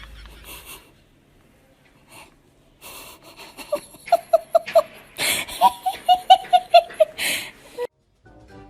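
A person's high-pitched laughter: quick runs of short laughs at about five a second, with wheezy gasps in between, starting a few seconds in.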